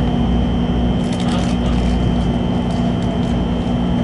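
Cabin noise inside an N700 Shinkansen train running: a steady low rumble with a constant hum and a thin high whine. A few faint clicks come about a second in.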